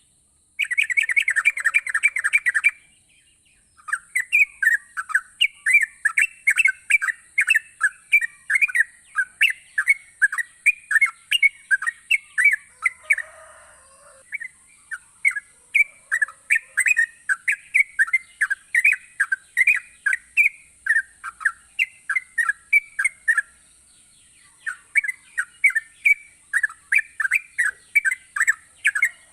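Yellow-vented bulbul (trucukan) singing: a quick burst of rapid chattering notes, a short pause, then lively repeated chirps at about two notes a second with a few brief breaks. A steady high-pitched hiss runs underneath.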